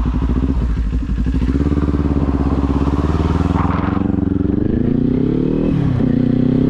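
Kawasaki Z400 parallel-twin engine pulling away: a low chug at first, then the pitch climbs steadily for several seconds. Near the end it drops briefly and climbs again, as with a gear change.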